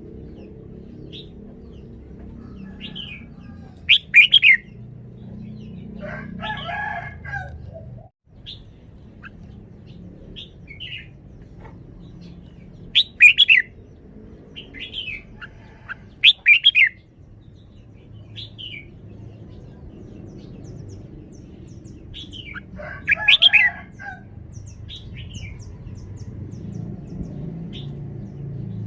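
Red-whiskered bulbul singing: about five loud, short whistled phrases several seconds apart, with softer chirps in between, over a steady low background rumble.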